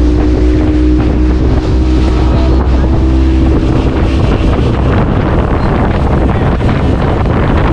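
Speedboat engine running steadily and loudly under way, with wind buffeting the microphone.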